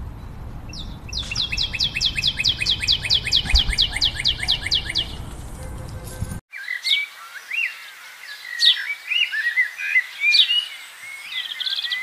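A bird calling in a fast run of short falling notes, about five a second, over a low rumble, for about four seconds. After an abrupt cut about six seconds in, a different recording follows, with several birds chirping and whistling in scattered, sharply rising notes.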